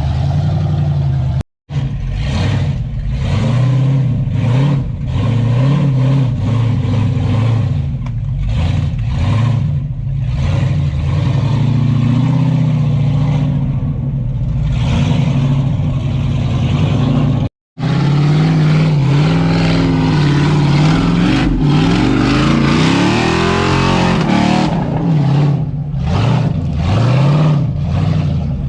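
A 4x4 competition truck's engine, loud, revving up and down again and again as the truck drives. The sound drops out abruptly twice, at about a second and a half and at about eighteen seconds in.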